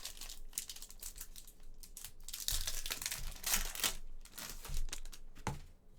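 Trading-card pack wrapper crinkling and tearing as a pack of football cards is ripped open, with a sharp click near the end.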